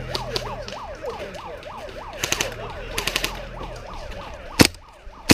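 A siren wailing quickly up and down, about three sweeps a second, over a low hum, fading out near the end. Airsoft guns fire two short rapid bursts midway and a sharp single shot near the end.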